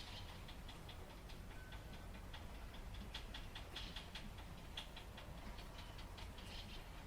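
Light rain, with individual drops ticking irregularly on a hard surface, several a second, over a steady low rumble.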